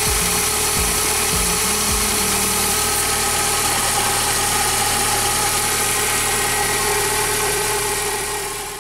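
Volkswagen Gol engine idling steadily, with its new fuel pressure regulator fitted. A pulsing low beat sits over it in the first two to three seconds, and the sound fades out at the very end.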